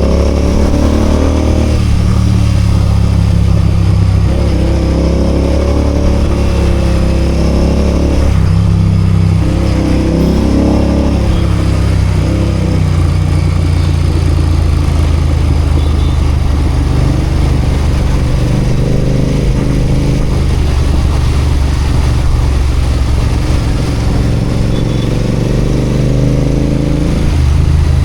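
Royal Enfield Continental GT 650's 648 cc parallel-twin engine running as the motorcycle is ridden in traffic, its pitch rising several times as it accelerates, with steadier running in between.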